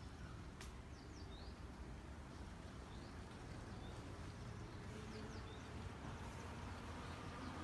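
Faint, short bird chirps every second or so over a low, steady background rumble, with one click just over half a second in.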